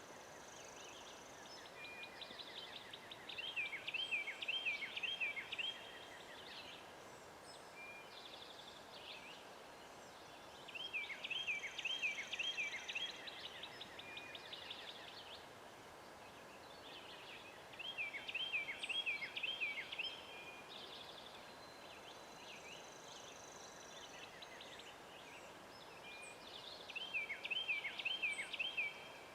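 A songbird singing the same short phrase of quick, clear, hooked notes four times, about every seven to eight seconds, over steady woodland background noise.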